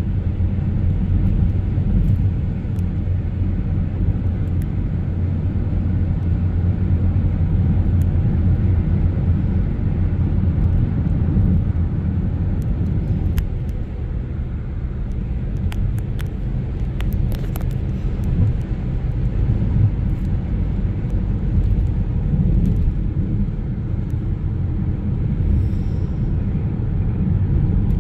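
A car driving, with a steady low road and engine rumble and a few faint clicks about halfway through.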